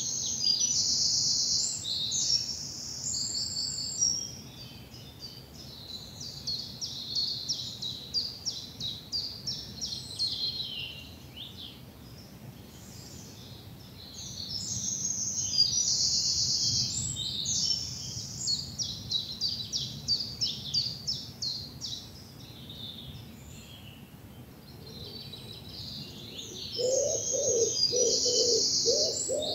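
Woodland songbirds singing. One bird repeats long, rapid, high-pitched trilled phrases about every twelve seconds, with quieter chirps in between. Near the end a low, repeated cooing begins underneath.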